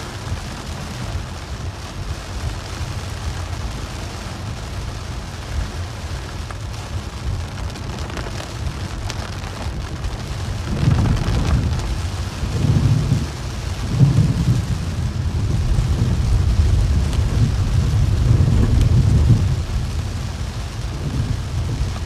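Heavy rain pattering on a car's windshield and body over a steady low rumble. About halfway through, a deeper, louder rumble swells in and rolls on in waves for around nine seconds before easing.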